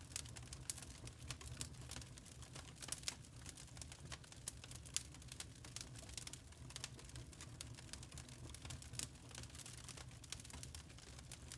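Burning charcoal crackling: small sharp pops and ticks at an irregular pace over a low steady rumble.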